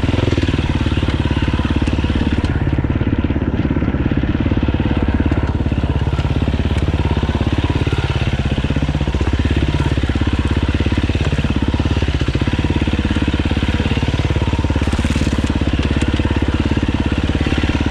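Dirt bike engine running continuously while being ridden, its pitch rising and falling as the throttle is worked.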